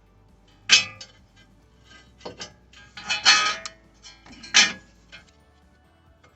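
Brake pads clacking and clinking against the metal clips of the caliper bracket as they are pushed into place: a sharp clack about a second in, a burst of clatter around three seconds in, another clack near the five-second mark, and lighter clicks between.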